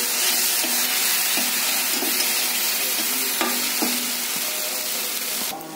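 Water hitting a hot steel kadhai of okra masala sets off a steady sizzle, which cuts off suddenly near the end. A metal spatula scrapes and clinks against the pan several times as the okra is stirred.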